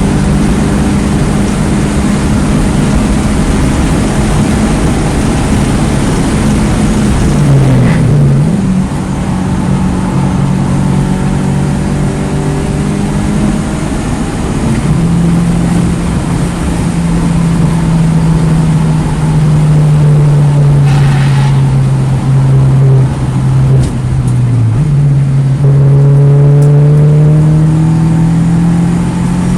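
2009 Mini Cooper S (R56) turbocharged 1.6-litre four-cylinder engine working hard on track, its pitch climbing and falling as it pulls through the gears. There are quick breaks in pitch at gear changes about eight seconds in and again near the end, over steady wind and tyre noise.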